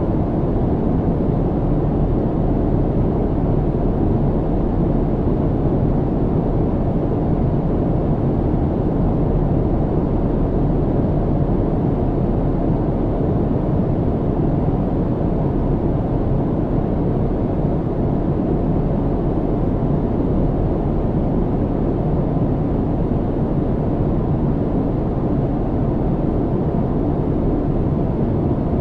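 Airplane cabin noise in flight: a steady, even low rumble and hiss that does not change.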